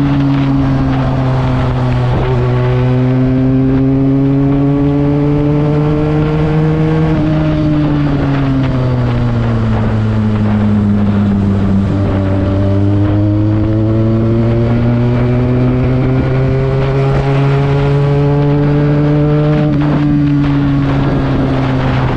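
Benelli TNT 300 parallel-twin engine running hard through an aftermarket Akrapovic exhaust while being ridden. Its pitch dips briefly about two seconds in, climbs, falls away for several seconds in the middle, then climbs again before easing off near the end.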